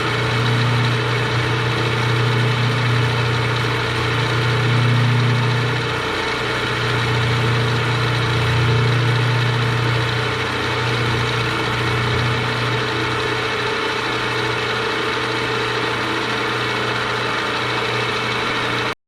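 Electric metal-cutting machine running steadily under load while cutting through a slot in a metal part, with a strong low motor hum that swells and eases slightly. It cuts off suddenly just before the end.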